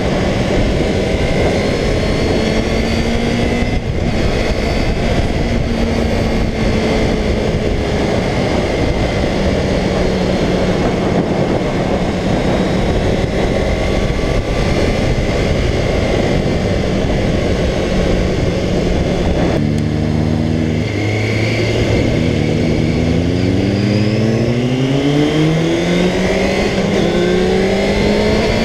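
Kawasaki ZXR400's inline-four engine running at steady revs, under heavy wind noise. About twenty seconds in the note changes abruptly, then rises steadily as the bike accelerates.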